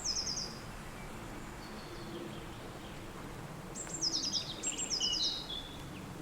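A songbird singing short, high, rapid trilled phrases: one right at the start and two in quick succession about four seconds in, over a steady hiss of wind.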